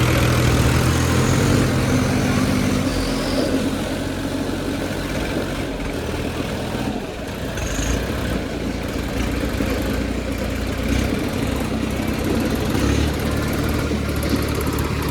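Diesel tractor engines running hard under load during a tractor tug-of-war. The steady, deep engine note eases a little a few seconds in and picks up again after about eight seconds.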